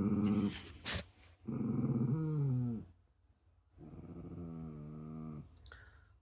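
A dog grumbling and growling in three drawn-out vocal bouts, the middle one sliding down in pitch, throwing a fit. A sharp click comes about a second in.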